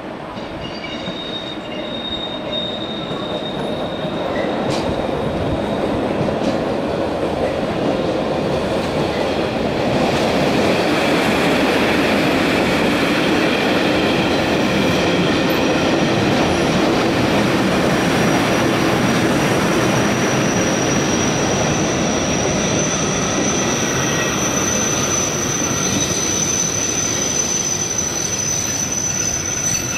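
Berner Oberland-Bahn narrow-gauge passenger train rolling past, its wheels running over the rails and growing louder over the first ten seconds. From about halfway a steady high-pitched wheel squeal joins in as the cars take the curve.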